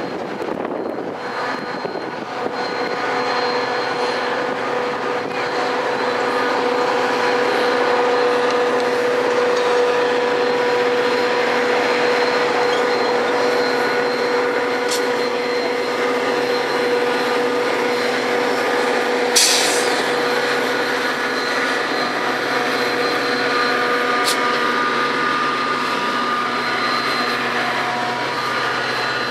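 Metra commuter train led by two diesel locomotives running past, followed by its bilevel coaches rolling by, with a steady mechanical tone. One sharp click about two-thirds of the way through.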